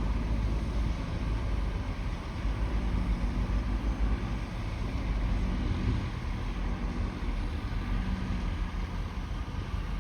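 Bulldozer's diesel engine running under load with a steady low rumble and a wavering engine note.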